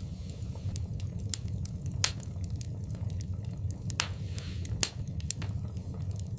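Fire in a fireplace crackling, with sharp irregular pops over a steady low rumble; the loudest pop comes about two seconds in, and a short hiss rises around four seconds in.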